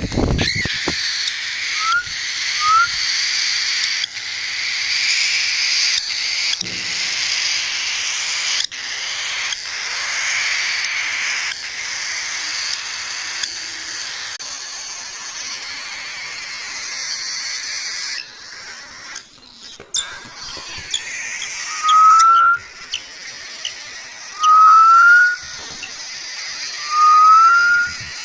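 A flock of small pet parrots in an aviary chattering and chirping continuously. In the last third a loud, short rising whistle comes about every two and a half seconds, four times.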